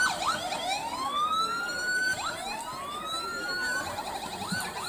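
Electronic emergency siren switching between fast up-and-down yelps and slow rising wails, returning to the fast yelp near the end.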